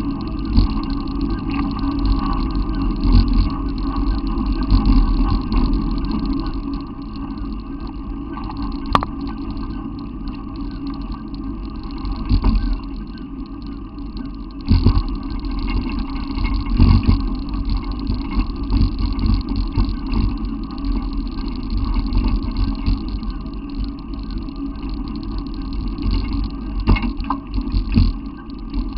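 A vehicle running: a steady low rumble with occasional knocks and bumps.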